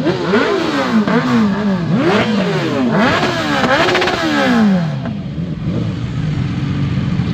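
Sport motorcycle engine revved again and again, its pitch rising and falling about once a second. A little after halfway the revving stops and the engine runs at a steady pitch.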